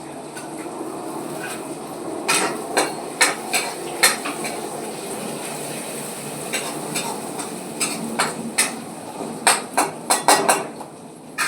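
Metal cooking utensil knocking and scraping against a pan while the vegetables are stirred, in irregular clusters of sharp clinks, over a steady hiss.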